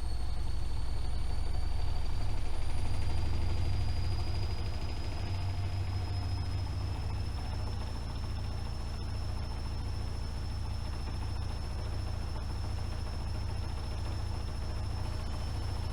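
AEG Öko-Lavamat 76730 washing machine spinning: a deep rumble from the drum under a thin high motor whine that rises slowly and steadily in pitch as the drum picks up speed.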